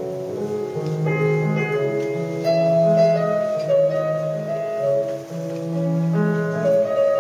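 Classical piano music, with held notes and chords changing about every second.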